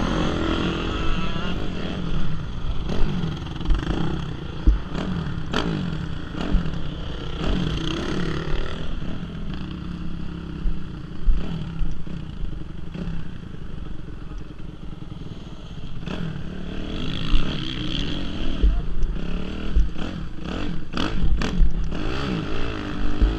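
Motocross bike engines running on the track, their pitch rising and falling as the throttle opens and closes, with scattered knocks and clatter, more of them near the end.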